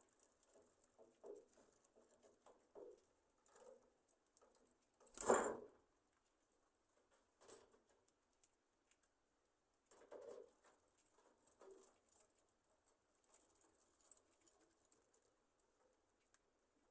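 Budgerigars in an aviary shifting about at rest: faint scattered scratches and clicks, with one louder rustle about five seconds in and shorter rustles around seven and ten seconds.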